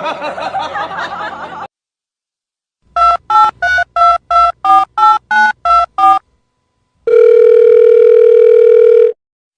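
Telephone touch-tone keypad dialling a number: eleven short two-tone beeps at about three a second, then a steady telephone tone for about two seconds. A voice is heard briefly at the start.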